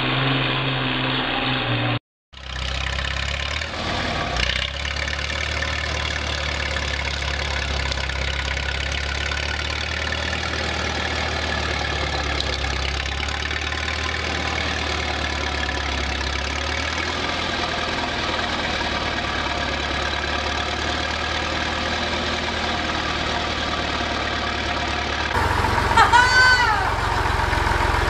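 Engine of a large machine running steadily, with an edit break about two seconds in and another near the end, where a short rising-and-falling tone sounds.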